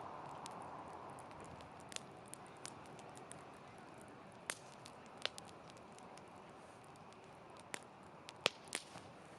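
Wood campfire burning with a soft steady hiss and scattered sharp crackles and pops, the loudest pop near the end.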